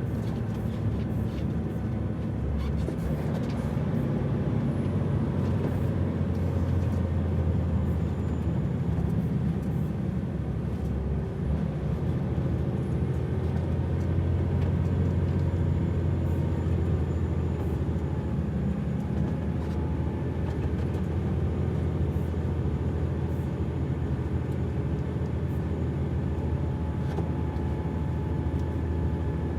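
Heavy truck's diesel engine running steadily with a deep, continuous low drone as the truck comes down a ferry ramp.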